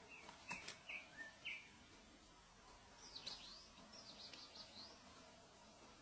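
Faint bird chirping: a few short high notes in the first second and a half, with two sharp clicks about half a second in, then two quick clusters of higher chirps in the middle.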